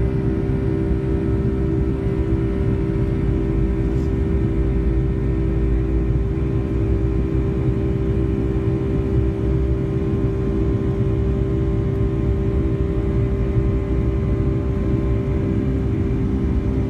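Boeing 757-200 jet engine and airflow noise heard inside the passenger cabin: a steady, loud drone with several constant engine tones over it, unchanging throughout.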